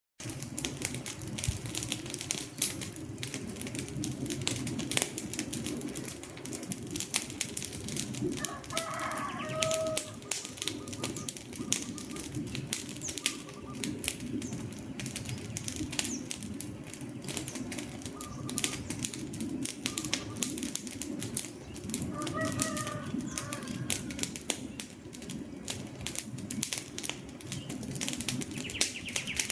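Wood fire burning, with dense irregular crackles and pops over a steady low rumble of flames. Twice, about nine and twenty-two seconds in, a brief pitched chirping sound rises over the crackle.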